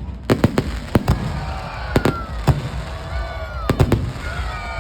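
Fireworks going off: a rapid, irregular string of sharp bangs, several in quick pairs, over a low rumble.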